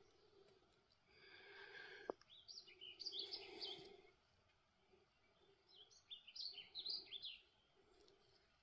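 Faint songbird song: two bursts of quick, high chirping notes, about two and a half seconds in and again about six seconds in. Just before the first burst there is a brief buzzy note, then a single sharp click.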